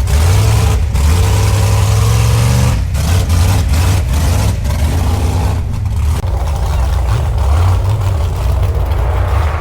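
A vehicle engine running loud and low, with some revving and a few sharp knocks.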